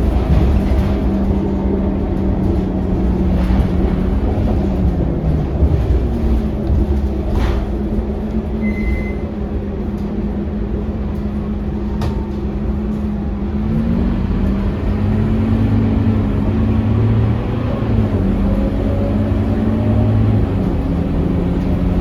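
Scania K230UB city bus's five-cylinder diesel engine running under way, with the engine note falling about four seconds in, recovering, and climbing again around fourteen seconds as the bus changes speed.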